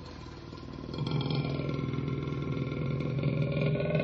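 Black panther growling: a low, steady, rapidly pulsing rumble that grows louder about a second in.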